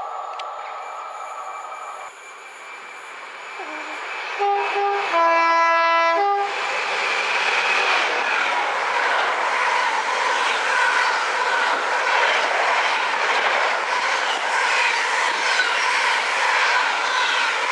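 A train horn sounds about four seconds in, two-tone: brief higher notes around a longer lower note. About a second later the train passes at speed, wheels running over the rail joints with a steady rush of noise.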